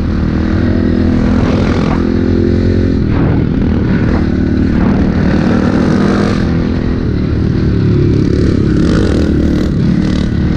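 Pit bike engine running hard on the throttle, its pitch rising and falling as the rider works it.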